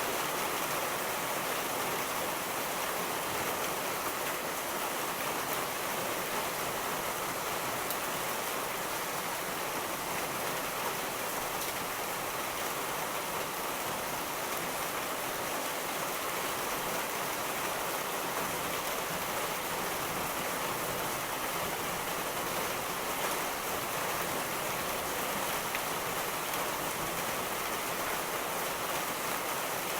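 Rain falling in a steady, even hiss, with no thunderclap or rumble standing out.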